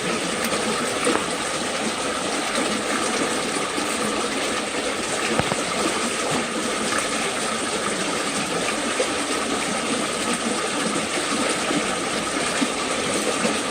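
Steady rush of a fast-moving creek running high and swollen after heavy rain.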